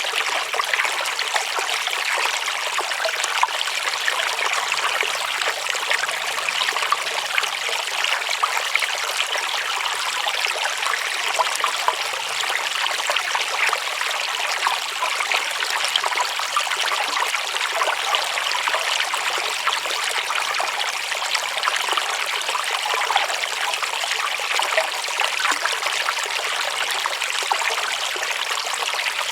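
Shallow water running and trickling steadily, a continuous bright splashing hiss with little low rumble.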